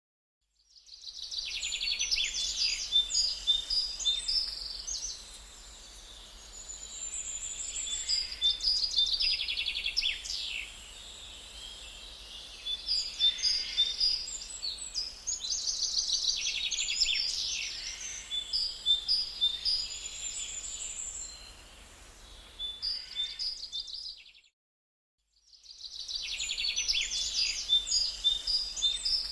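Birds chirping and twittering, many quick calls overlapping in waves. The sound cuts out abruptly about 24 seconds in and starts again in the same pattern a second or so later.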